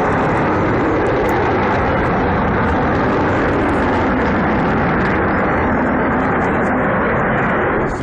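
Loud, steady jet noise from the Avro Vulcan XH558 bomber's four Olympus turbojets as it flies its airshow display.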